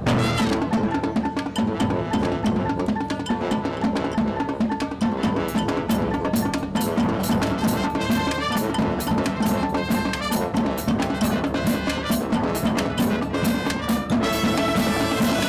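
Marching band playing, the drum line's snare and bass drums driving a steady rhythm under sustained brass and wind notes that fill out into fuller held chords near the end.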